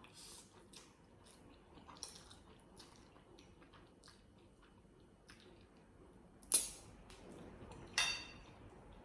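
Quiet eating sounds of a noodle mukbang: faint chewing and scattered small clicks of chopsticks. Two louder knocks come about six and a half and eight seconds in, the second with a short ring, as the chopsticks strike the dish.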